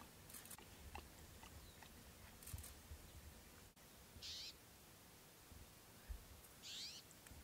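A bird calling twice, short high calls about two and a half seconds apart, over a faint low rumble.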